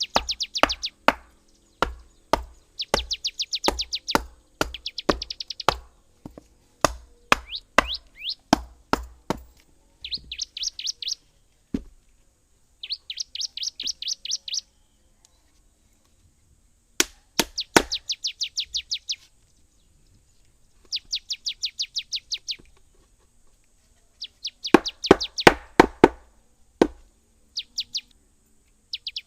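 A bird singing bursts of rapid high chirped trills, each one to two seconds long, alternating with runs of sharp knocks or chopping strikes.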